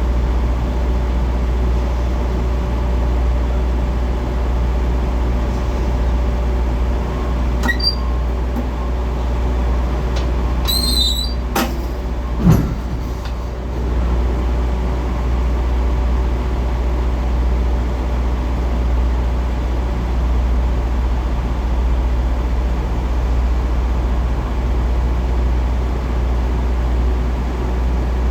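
Semi truck's diesel engine running steadily at low revs during a slow reverse. A brief high squeal comes about eleven seconds in, followed a second later by a single short thump.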